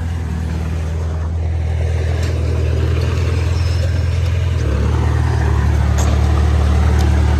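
Heavy diesel engine of earth-moving machinery running steadily under load, its low note shifting about two-thirds of the way through, with a few light clanks.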